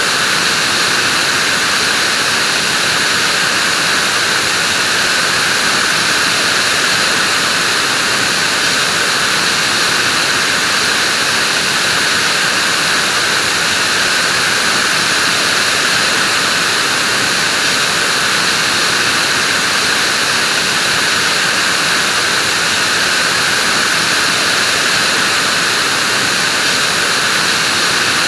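Vacuum cleaner running steadily: an even, unchanging rushing hiss with no starts, stops or changes in pitch.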